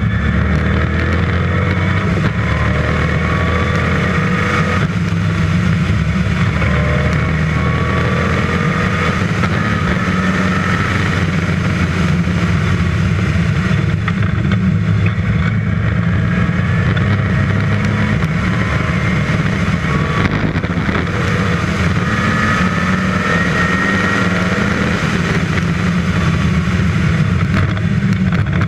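Westfield sports car's dry-sumped 5-litre V8 engine running hard at track speed, loud and continuous, its pitch climbing several times as the car accelerates.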